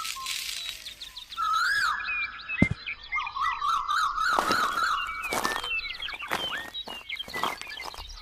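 Warbling, siren-like electronic tones with gliding chirps above them, broken by a series of sharp clicks.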